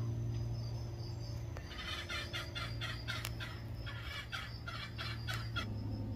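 A bird calling in a quick run of short repeated notes, about four or five a second, lasting some four seconds, over a steady low hum.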